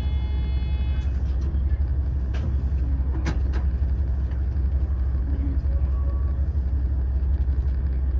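Steady low rumble inside the cabin of a diesel limited-express railcar. There is a faint high multi-tone sound in the first second and a few sharp clicks between about two and three and a half seconds in.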